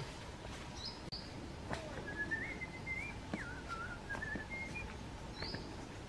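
Birds in forest: a few short, high chirps, and a wavering whistled phrase that rises and falls for about three seconds in the middle.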